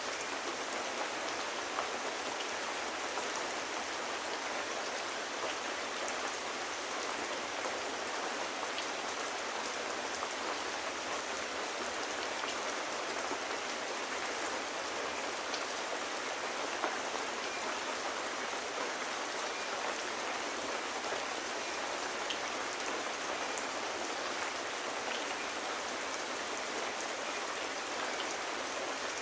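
Steady gentle rain falling, an even hiss with scattered small ticks of drops throughout.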